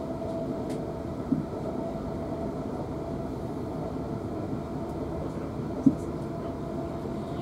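Running noise inside a South Western Railway Class 450 electric multiple unit at speed: a steady rumble of wheels on rail with a constant hum. Two short knocks cut through it, one just over a second in and a louder one about six seconds in.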